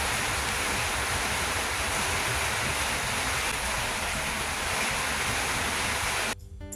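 Heavy downpour of rain as a steady, loud rushing hiss, cutting off suddenly near the end.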